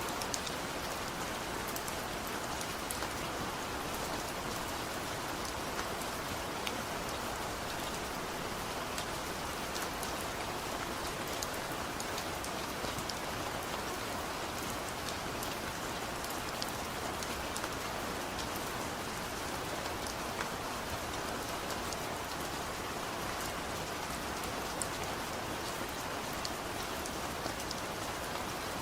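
Heavy rain falling steadily, a constant hiss with many individual drops pattering on a surface.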